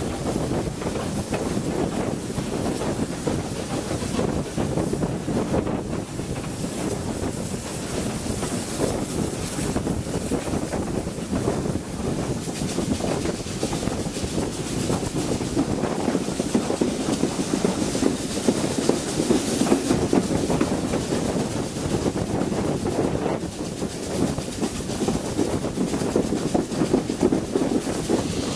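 Railway carriage running along the line at speed, its wheels rumbling steadily on the rails, with wind buffeting the microphone held out of the window.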